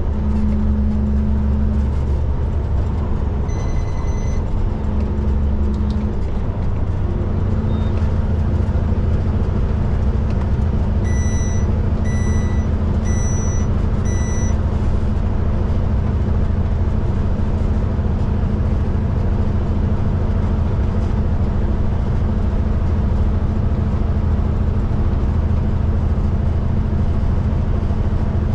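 Kenworth K200 cab-over truck's Cummins diesel engine running steadily, heard from inside the cab while driving. A single high electronic beep sounds about four seconds in, and four more beeps follow in a row about halfway through.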